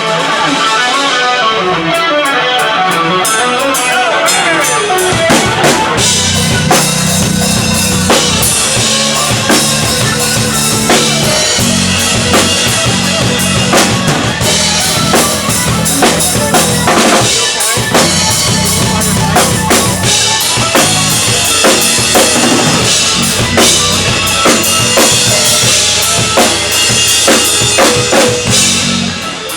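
Live rock band playing an instrumental passage: drum kit with kick, snare and rimshots, electric guitar and bass, loud and steady, with the drums entering fully after a few seconds.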